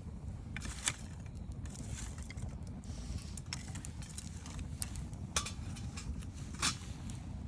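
Wood campfire crackling: irregular sharp pops and snaps, a loud one about a second in and another near the end, over a steady low rumble.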